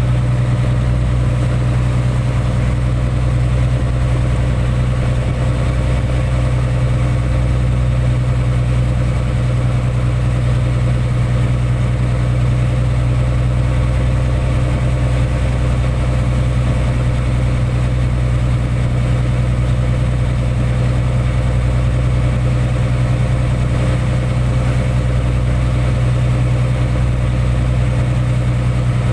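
Boat engine running steadily at constant speed, a low even hum that does not change.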